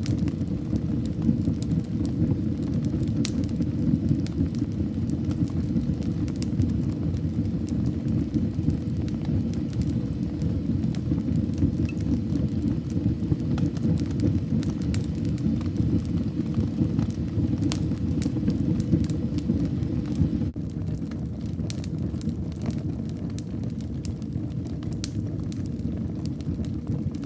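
Wood fire in a fireplace crackling, with frequent sharp pops and snaps over a steady low rumble of burning. The rumble becomes slightly quieter about twenty seconds in.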